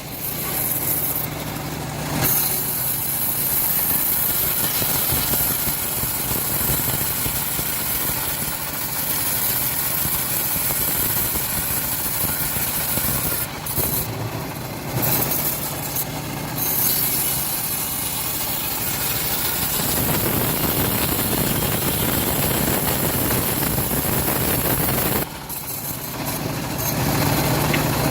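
Engine-driven homemade bandsaw mill running as its blade saws through a teak log, a dense, even cutting noise. A steadier low engine hum comes through at the start and again near the end.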